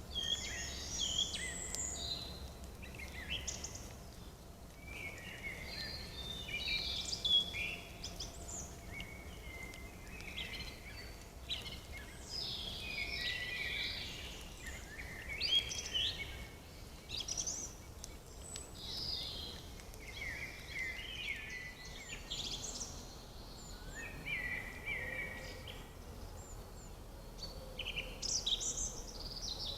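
Several small songbirds singing and calling over one another, with quick chirps and trills, over a faint low rumble.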